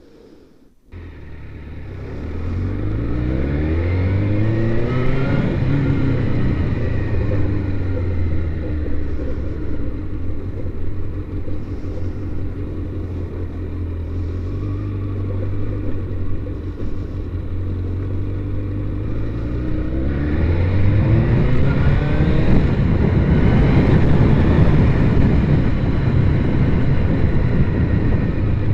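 Motorcycle engine accelerating while riding, its pitch climbing in steps through the gears over the first several seconds, then holding a steady cruise. About twenty seconds in it accelerates again, and a rushing wind noise grows louder.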